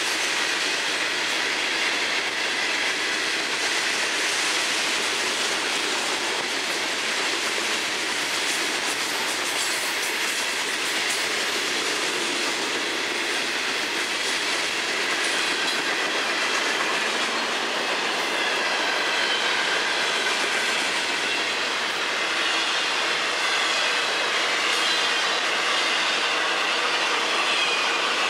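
Freight train cars (hoppers, then double-stack container well cars) rolling steadily past: the continuous rumble and clatter of steel wheels on rail, with a thin high wheel squeal running through it.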